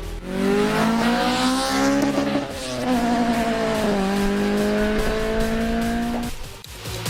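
Car engine accelerating hard through the gears: its pitch climbs, drops at an upshift about two and a half seconds in and again about four seconds in, climbs once more, then cuts off abruptly near the end.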